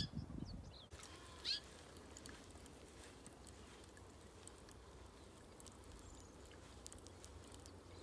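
Faint outdoor ambience with one short bird call about a second and a half in.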